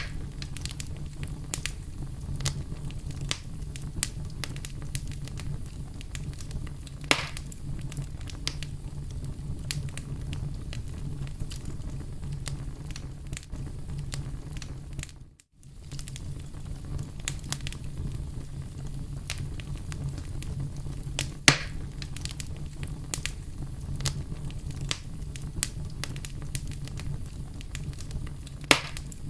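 Fire in a fireplace crackling, with many small snaps and a few louder pops over a low steady rumble. The sound cuts out for a moment about halfway through.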